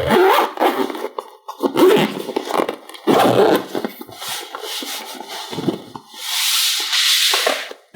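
Irregular rubbing and scraping handling noises, with a longer hissing scrape or rustle a little after six seconds in.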